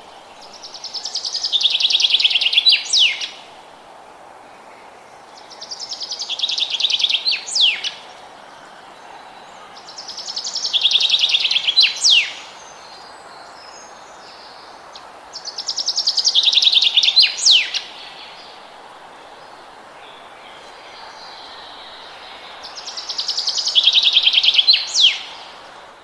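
A songbird repeating the same song five times, about every five seconds: each song is a fast, high trill that grows louder for about two seconds and ends in two or three sharp, clipped notes. A steady soft hiss of background noise runs underneath.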